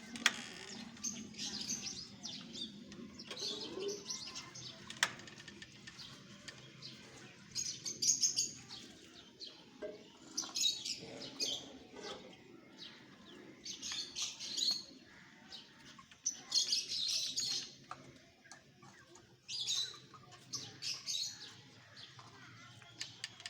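Birds chirping in short high-pitched bursts, each about a second long, repeating every two to three seconds.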